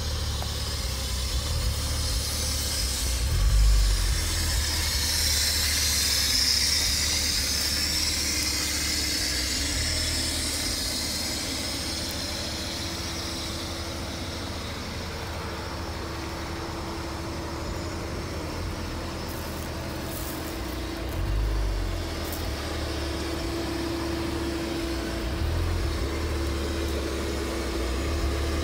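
2000 Porsche Boxster's flat-six engine idling steadily.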